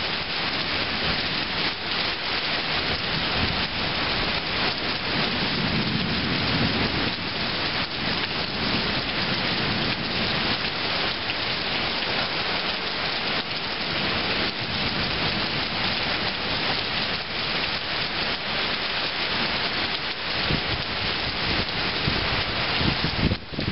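Heavy rain pouring down steadily during a thunderstorm, with a low rumble of thunder swelling briefly about a quarter of the way through.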